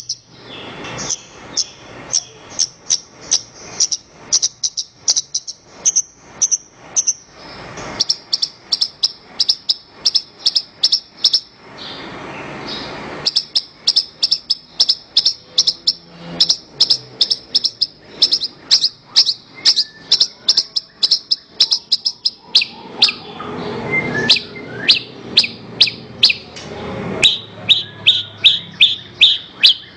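Javan bush lark (branjangan) singing a long, fast series of sharp, repeated chirps, several a second, with the pitch stepping down in stages, lowest near the end.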